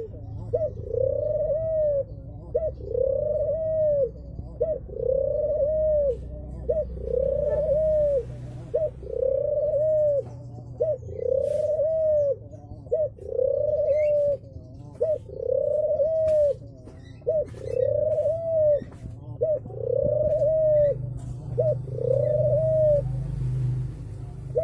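Domestic ringneck dove (puter) cooing over and over: each call a short note followed by a longer coo that rises and falls, repeated about every second and a half and stopping near the end. A steady low rumble runs underneath.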